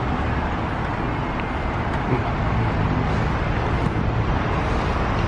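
Pickup truck driving: a steady engine hum under even road and wind noise.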